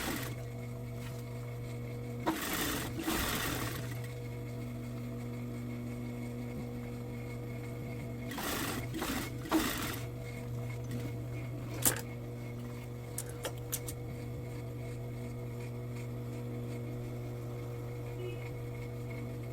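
Industrial sewing machine motor humming steadily. It breaks into two brief stitching runs about two and eight seconds in, with a few sharp clicks around twelve to fourteen seconds.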